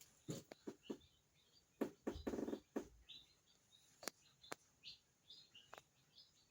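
Faint chirps of small birds, short high notes scattered throughout, with a few sharp clicks and a short buzzy rattle about two seconds in.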